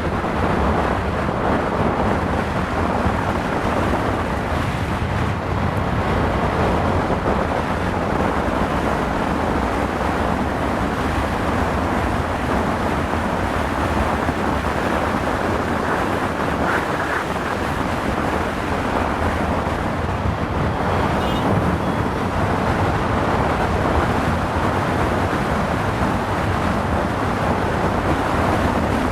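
Steady wind rush over the microphone on top of the steady hum of a motorcycle riding at speed.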